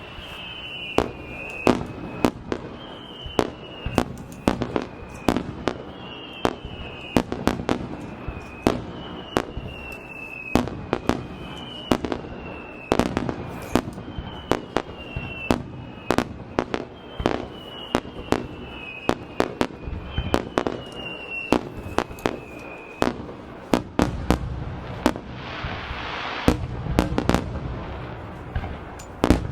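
Fireworks display: aerial shells bursting in quick succession, dozens of sharp bangs at irregular spacing. A high falling two-note tone repeats about every one and a half seconds until about 23 seconds in, and a hiss swells briefly near the end.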